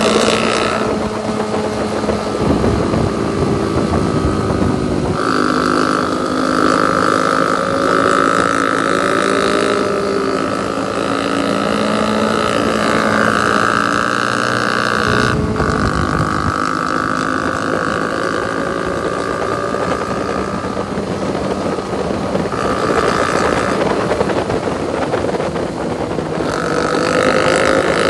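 Motorcycle engine running under way, its pitch rising and falling as the revs change.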